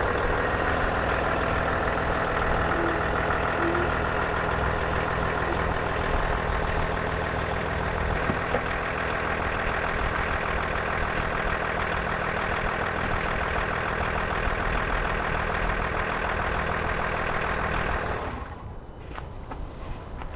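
An engine running steadily with a constant low hum, which drops away sharply about eighteen seconds in.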